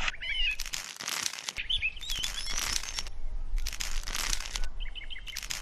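Repeated scraping or crunching strokes, about four in a row spaced roughly a second and a half apart, with birds chirping among them.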